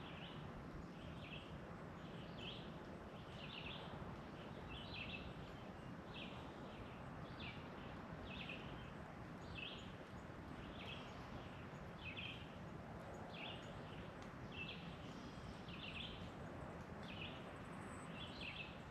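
A small animal outdoors giving the same short, high chirp over and over at an even pace, about one every three-quarters of a second, over a steady hiss of outdoor ambient noise.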